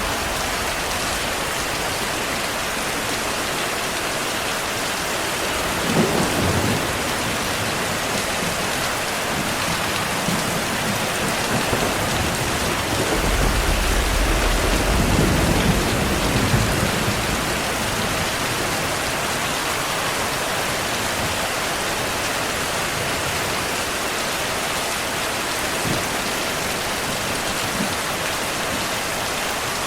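Steady heavy rain hissing, with thunder: a short sharp clap about six seconds in and a longer low rumble that swells and fades near the middle.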